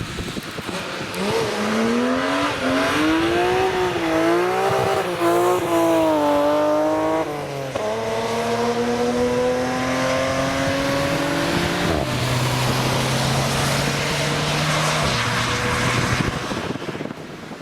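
A car engine accelerating hard on a wet track, its pitch climbing through the gears, with a sharp drop at a gear change about seven and a half seconds in and another around twelve seconds. It fades out near the end over a steady hiss.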